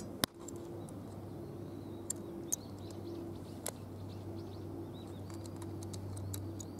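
Outdoor ambience of birds: small birds chirping and a low cooing that comes and goes, over a steady low hum. One sharp knock sounds just after the start and is the loudest sound.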